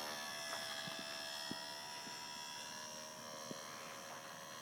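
Electric motor and propeller of a HobbyZone Super Cub RC plane in flight: a steady whine at constant pitch, slowly fading.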